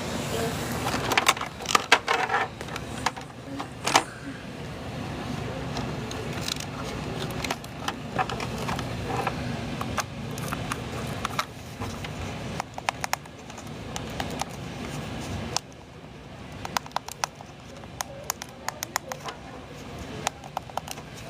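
Shop ambience: a steady low background hum with indistinct voices, and scattered sharp clicks and clinks of items being handled, such as glassware and ceramics being picked up and set down. The background hum drops noticeably about three-quarters of the way through.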